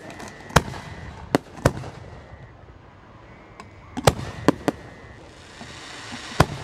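Aerial firework shells bursting with sharp bangs: four in the first two seconds, three in quick succession about four seconds in, and one more near the end.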